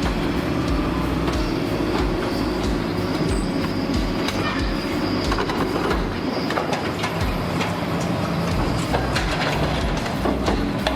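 A heavy machine's engine running under load, with many irregular metallic clanks and knocks.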